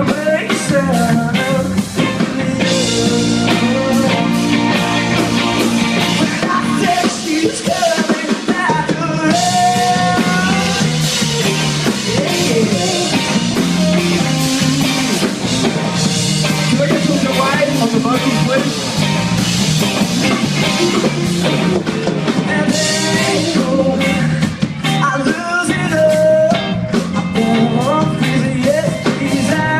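Live rock band playing a song at full volume, drums driving under pitched guitar or vocal lines.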